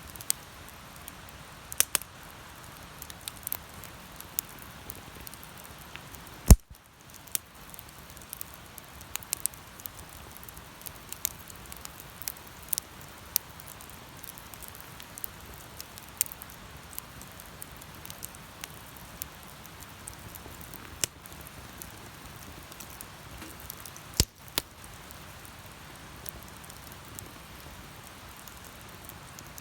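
Wood bonfire burning with a steady hiss and frequent sharp crackles and pops. There is one loud crack about a fifth of the way in and another near the end.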